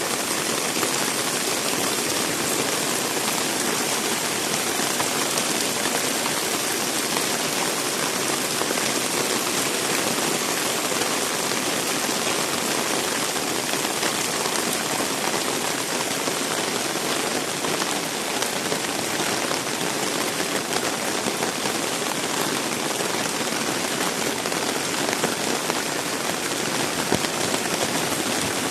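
Heavy rain falling steadily: a dense, even hiss of drops splashing on wet surfaces, with scattered louder drop hits.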